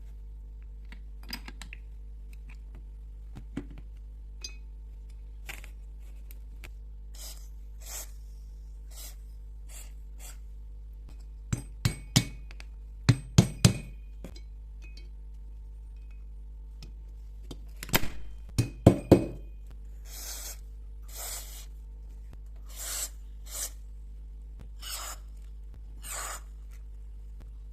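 Hand-tool work on small metal carburetor parts: scattered clinks and knocks with two louder clusters of sharp impacts, then a run of short rubbing or scraping strokes, over a steady low electrical hum.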